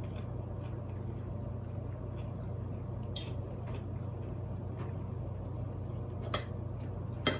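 Faint chewing of crispy baked tofu over a steady low hum. Short sharp clicks of a metal fork against the plate come about three seconds in and twice near the end.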